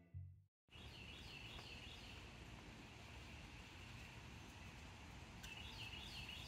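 Faint outdoor ambience with a bird giving quick runs of repeated high chirps, once about a second in and again near the end.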